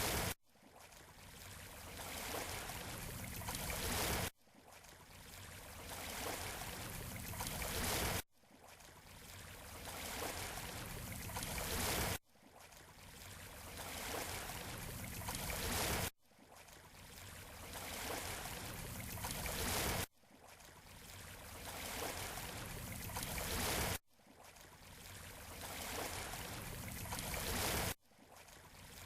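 Seashore surf, a steady wash of water noise that builds for about four seconds, cuts off abruptly, and starts building again, repeating seven times at an even four-second cycle like a short recording looped.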